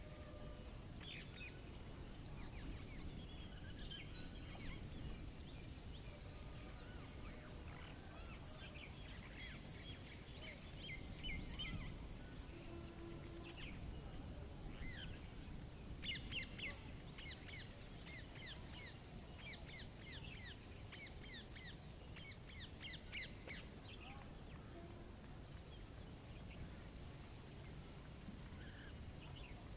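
Many small birds chirping and calling over a low steady background rumble. A fast, even run of very high-pitched ticks sounds for several seconds in the middle.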